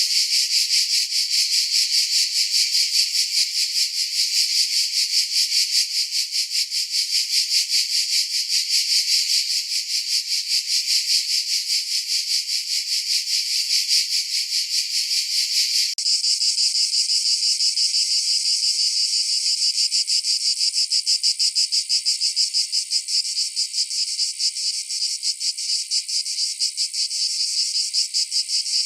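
Cicadas buzzing loudly and continuously with a rapid pulsing. About halfway through, the buzz changes abruptly to a thinner, higher one.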